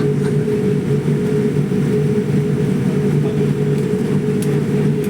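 Steady, low aeroplane drone of engines and airflow, as heard from inside the cabin in flight.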